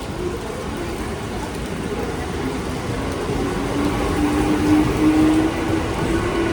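A train moving at the station, a steady rumbling noise that slowly grows louder. From about two and a half seconds in, a faint whine rises gently in pitch, as a train's motors do when it pulls away.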